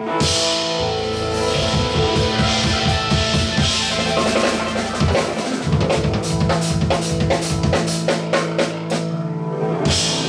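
Live band music driven by a drum kit, with rapid bass drum and snare hits under sustained held notes, building through the closing bars of a piece and stopping at the very end.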